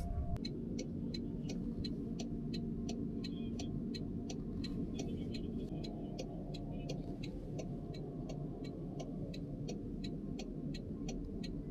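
A car's indicator ticking steadily inside the cabin, about three clicks a second, over the low rumble of the car.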